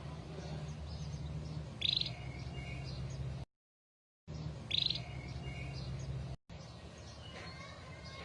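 Indigo flycatcher calling: two short, bright high notes about three seconds apart, with fainter chirps between them, over a steady low hum. The sound drops out completely twice.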